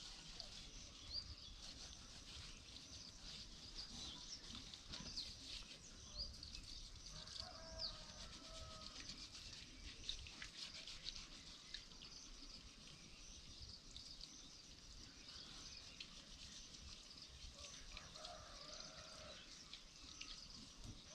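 Birds chirping and twittering on and off, many short high chirps over a faint steady outdoor background, with two brief lower calls in the middle and near the end.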